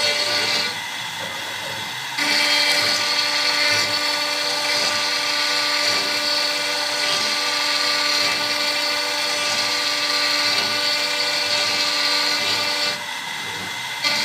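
CNC router's spindle running with a steady high whine, dropping quieter for about a second and a half shortly after the start and again near the end.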